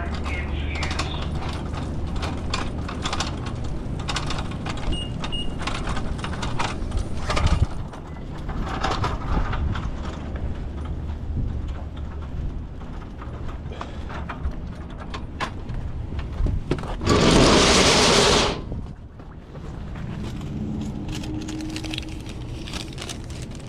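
Plastic 20-ounce soda bottles being handled and set onto store cooler shelves: scattered knocks, clicks and scrapes over a steady low hum. About seventeen seconds in, a loud rushing noise lasts for about a second and a half.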